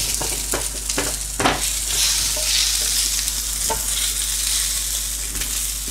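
Chips frying in hot beef dripping, a steady sizzle, with a few sharp knocks of a utensil against the pan in the first second and a half.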